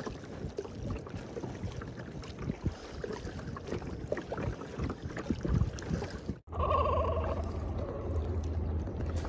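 Water sloshing and splashing around a kayak as it is paddled, with small irregular splashes from the paddle blades. About two-thirds through, the sound cuts off abruptly and is replaced by a steady low rumble.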